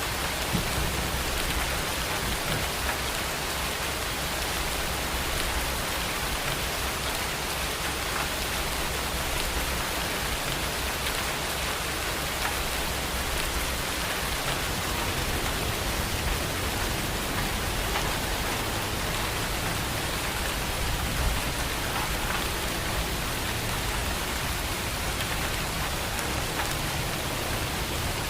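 Steady rain falling and pattering on a surface, with scattered louder drop hits.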